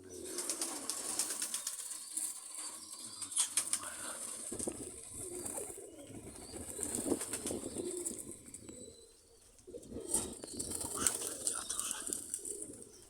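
Domestic pigeons cooing, with bursts of wing flapping, over a steady rustle.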